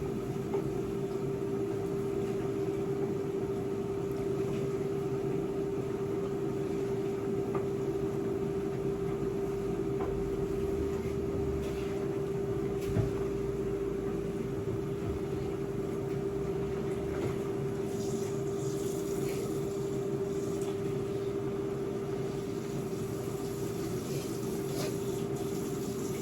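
A kitchen appliance motor humming steadily on one tone, with a few faint clicks over it.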